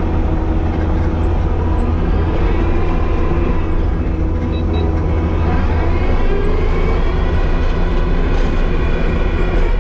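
Skid steer's diesel engine running steadily, heard from inside the cab, with a strong low hum.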